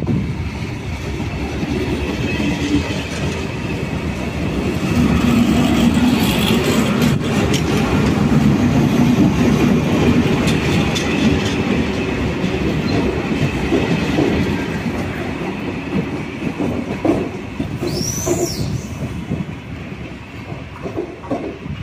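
A train running past on the rails: the rumble and clickety-clack of its wheels build up, stay loud through the middle, then ease off, with a brief high wheel squeal near the end.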